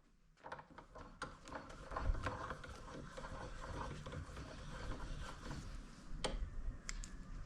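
Irregular metallic clicks and rattling from the parts of an old hand drill being handled and worked, with a sharper click a little past six seconds in.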